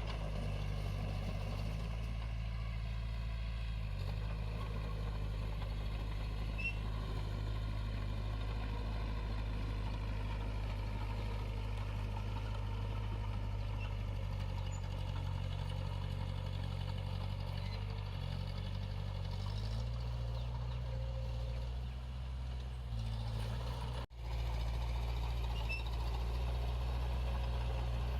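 Diesel engine of heavy earthmoving equipment running steadily with a low drone, its note shifting slightly partway through, cut by a brief dropout about three-quarters of the way in.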